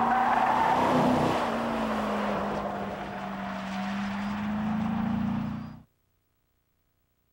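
Corvette V8 engine running at speed with road and tyre noise. The engine note holds fairly steady, sagging a little in pitch midway and climbing again, then cuts off suddenly about six seconds in.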